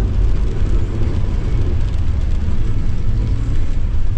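Steady engine and road noise of a vehicle driving along the highway: a continuous low rumble with an even tyre hiss above it.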